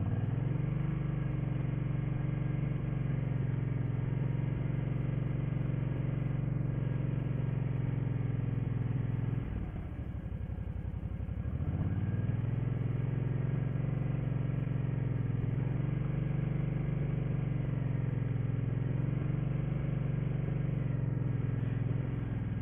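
Old motorcycle engine held at slightly raised revs while the clutch is eased out to the friction point. The revs fall away about nine and a half seconds in, then come back up about two seconds later and hold steady again.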